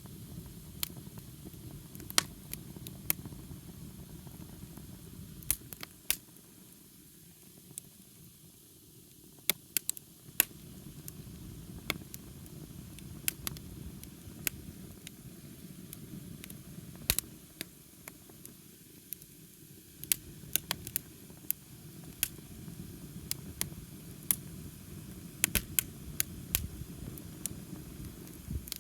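Wood campfire burning: irregular sharp crackles and pops from the burning wood over a steady low rush of the flames.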